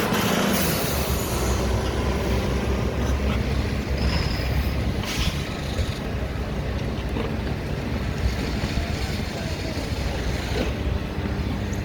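Diesel engine of a Mack garbage truck with a McNeilus front-loader body running steadily, with two short hisses of air, about half a second in and about five seconds in.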